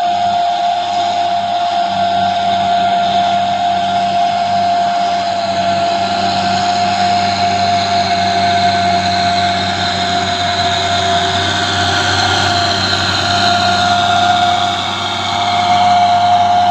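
Truck engine running steadily under load, with a strong high whine over a low drone, dipping briefly near the end.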